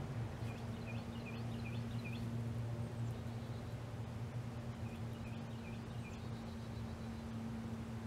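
A small bird singing a quick series of about five repeated high chirps, twice, over a steady low hum.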